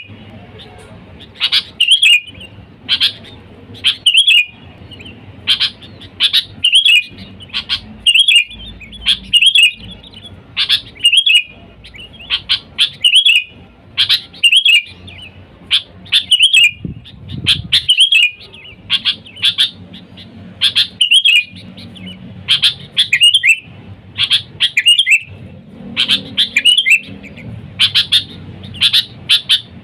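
Sooty-headed bulbul (kutilang) calling: short, bright chirping phrases repeated roughly once a second, with brief gaps between them.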